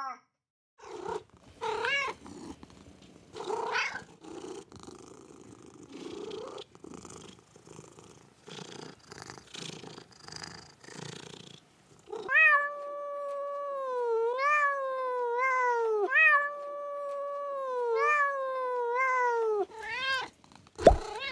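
Cat purring, with a few short meows breaking in. From about twelve seconds in, a cat meows over and over in long, high-pitched calls that rise at the start and fall away.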